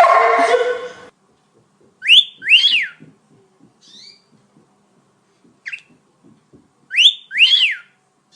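Short whistled notes, each sweeping up and then down in pitch. They come as a pair about two seconds in, one short one later, and another pair near the end. A voice-like sound breaks off about a second in.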